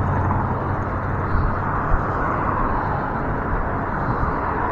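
Steady rushing noise of wind over the microphone and tyres on pavement while riding an e-bike, with a couple of faint ticks.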